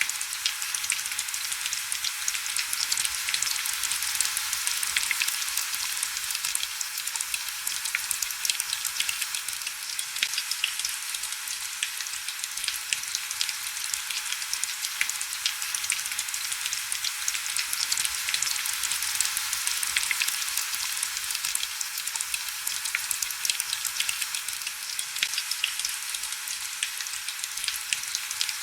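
Heavy rain falling steadily: a dense, even hiss full of fine crackling drop ticks, thin and high with no low rumble.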